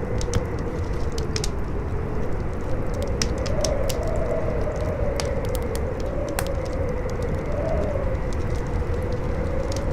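Campfire crackling with sharp, irregular pops over strong howling wind, whose hollow moan wavers up and down in pitch above a steady low rumble.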